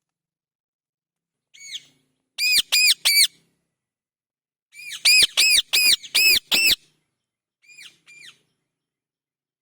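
Parrot giving shrill squawking calls in groups: one faint call, then three loud ones in quick succession, a run of about six, and two fainter calls near the end. Each call rises and falls in pitch.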